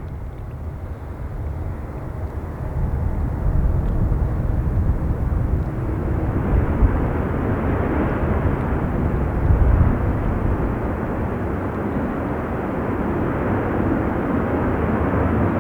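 Boeing 737 jet airliner passing on its arrival into the runway, its engine noise building over the first few seconds and then holding loud and steady.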